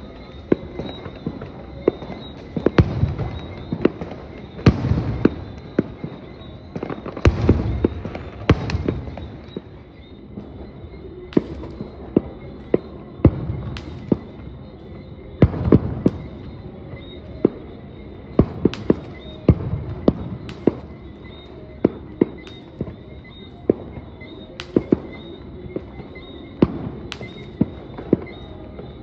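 Aerial fireworks going off in an irregular barrage: many sharp cracking bangs, a few each second, and every few seconds a louder shell burst with a deep rumbling boom.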